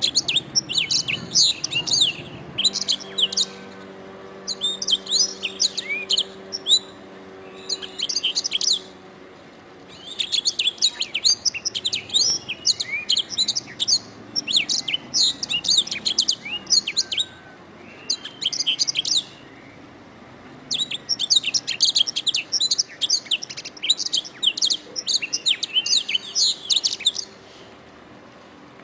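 Domestic canary singing: several-second bursts of rapid, high trills and chirped phrases, separated by short pauses.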